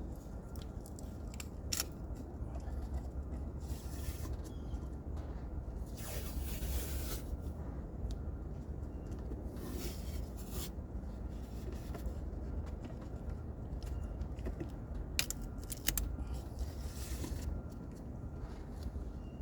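Parts and hand tools being handled during engine work: scattered scraping and rustling, with a few sharp clicks, over a steady low rumble.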